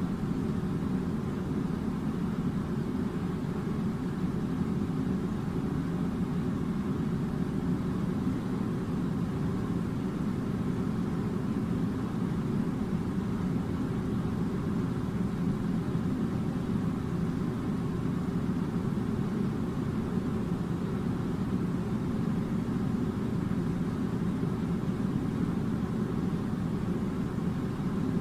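A steady low rumbling drone that does not change, with no separate events.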